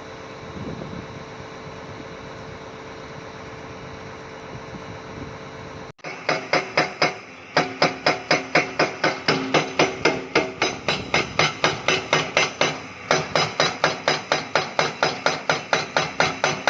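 An excavator engine runs steadily. About six seconds in, after an abrupt cut, a rapid, even hammering starts at about five blows a second, with brief pauses, typical of a hydraulic rock breaker pounding limestone.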